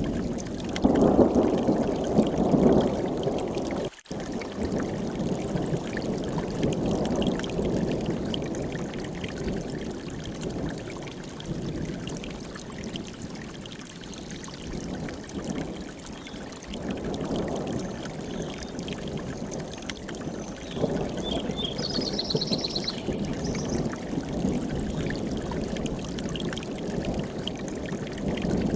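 Mountain stream rushing over rocks, a steady water rush that swells and eases every few seconds, with a momentary dropout about four seconds in. A short, high, quick trill of a small bird sounds about three quarters of the way through.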